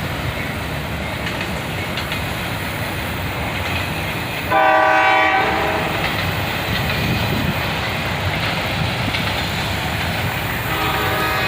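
Norfolk Southern AC44C6M locomotive No. 4004 and its train rolling past with a steady rumble of wheels on rail. The locomotive's air horn sounds a short blast about four and a half seconds in and starts again near the end.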